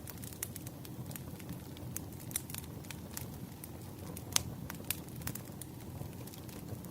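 Wood fire crackling: irregular sharp pops and snaps over a low, steady rumble of burning firewood, with one louder pop a little over four seconds in.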